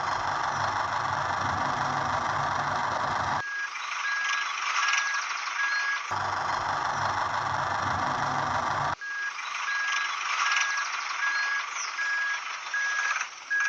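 A vehicle engine running, cutting abruptly back and forth with a reversing alarm beeping at a steady even rate. Each switches in twice.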